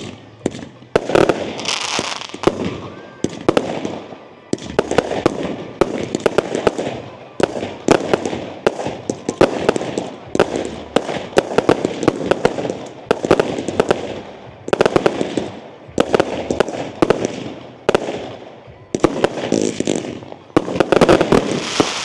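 Fireworks display: a continuous barrage of sharp bangs and crackling, many reports each second, swelling in waves and loudest near the end.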